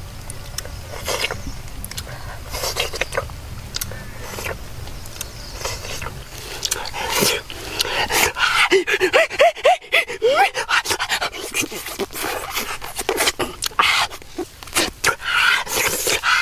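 A dog panting in quick breaths, with short high rising whines about two-thirds of the way through.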